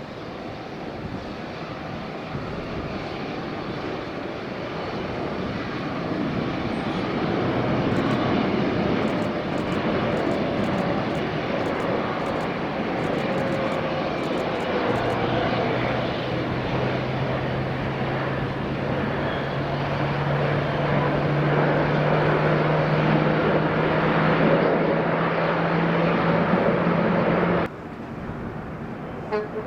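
Jet airliner's engines passing close by: a loud rushing noise that builds over the first several seconds, joined in the second half by a low hum that rises slowly in pitch. The sound cuts off suddenly near the end.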